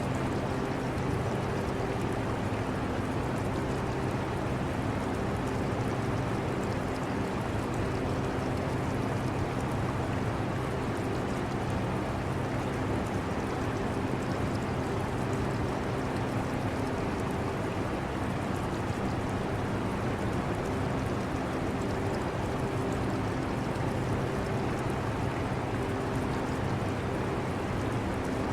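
Portable air conditioner running with a steady hum, together with the continuous sound of aquarium water moving. A few hum tones fade in and out.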